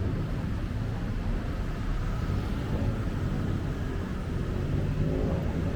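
Steady rumble of city road traffic, with motor vehicles running and passing on a busy street.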